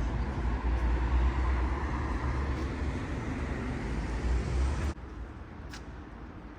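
Street traffic noise: a steady low rumble of passing vehicles, which drops off abruptly about five seconds in, leaving a quieter background.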